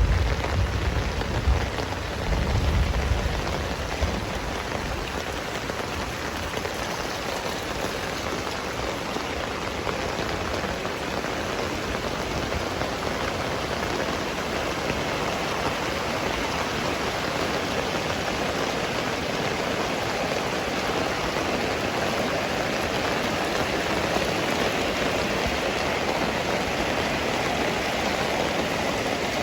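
Heavy rain falling steadily, an even hiss of drops. A low rumble of thunder dies away in the first few seconds.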